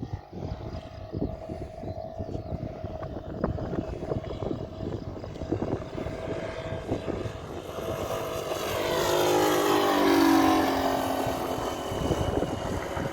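Radio-controlled Klemm L-25 model's TorqPro 70cc four-stroke engine and propeller running in flight. It grows louder and passes by about ten seconds in, its pitch falling as it goes. Wind buffets the microphone.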